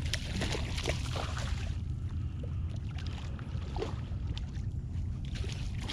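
Wind rumbling on the microphone, with light water splashes and scattered small knocks around a kayak on the water.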